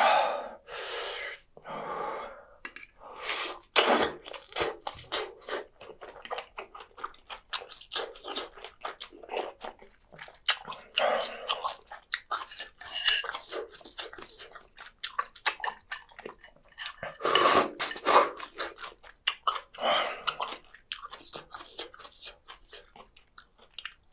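Close-miked chewing and slurping of spicy chicken feet in broth: many short wet mouth clicks and smacks, with a few longer slurps near the start, around the middle and about three-quarters through.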